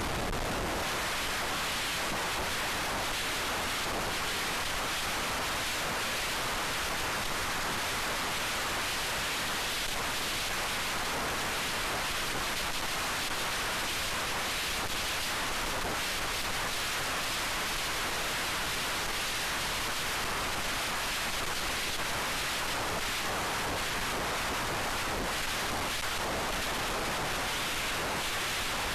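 Steady, even rushing hiss with no motor whine or other distinct sound in it.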